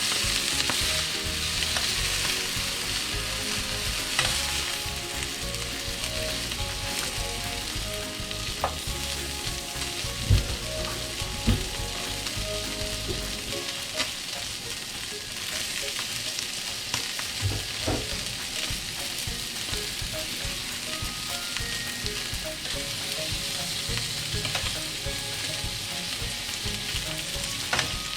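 Steak sizzling in an iron frying pan over a campfire, a steady frying hiss. There are scattered clicks, and a couple of sharper knocks about ten and eleven seconds in.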